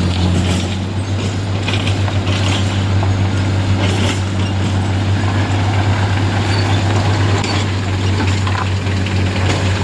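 A vehicle engine running with a steady low drone, amid the noise of road traffic.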